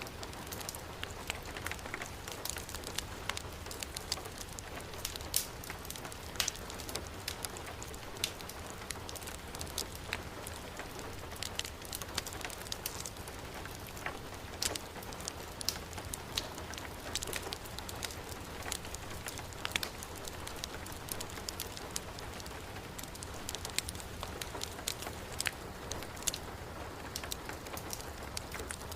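Steady heavy rain mixed with a crackling wood fire: an even hiss throughout, with frequent sharp pops and ticks.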